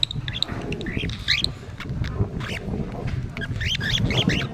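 Small birds chirping: short, quick sweeping calls in two clusters, one about a second in and another near the end, over a steady low rumble.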